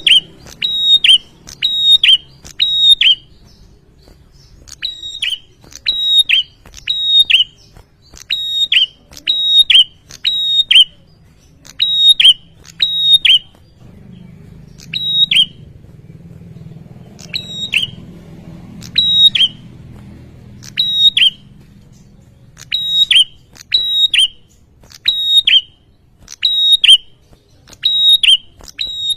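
Male prinia (prenjak) singing: loud, sharp notes, each dropping steeply in pitch, repeated about twice a second in runs of several with short pauses between. A faint low hum lies underneath.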